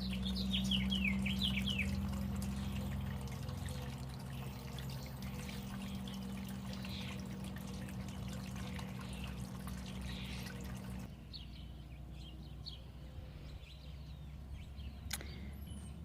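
Backyard songbirds singing in quick chirping phrases over a steady low hum and rushing background noise. The background drops away abruptly about eleven seconds in, and there is a single sharp click near the end.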